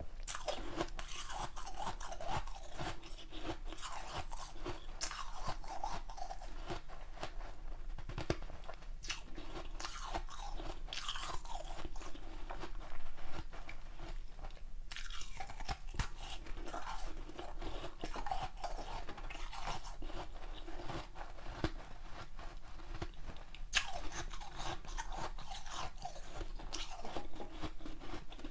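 Ice being bitten and chewed close to the microphone: dense, crackling crunches of teeth breaking through a large block of ice, with a brief pause about halfway.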